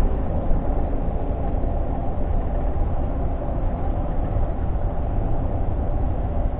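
Scania G460 truck's diesel engine and road noise heard inside the cab while driving: a steady low rumble.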